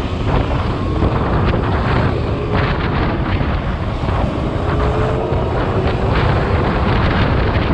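Wind rushing over the microphone of a moving motorcycle, with steady road noise and a few brief knocks from bumps.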